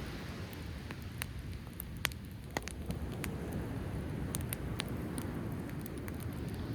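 Driftwood campfire crackling, with scattered sharp pops every half second or so, over the low steady rush of surf and wind.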